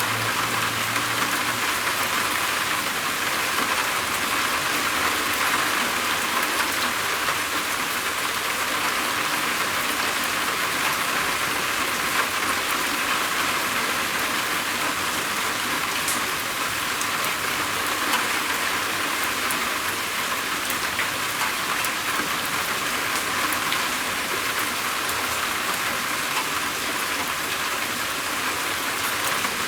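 Steady rain falling on a roof: a dense, even patter with fine drop ticks, unchanging throughout.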